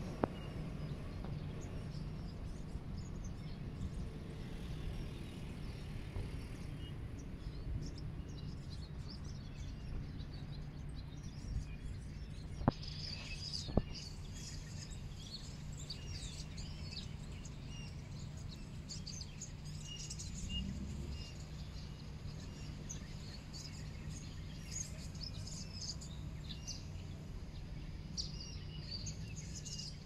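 Small birds chirping and singing in short, high calls, busier in the second half, over a steady low background rumble. Two sharp clicks come about halfway through.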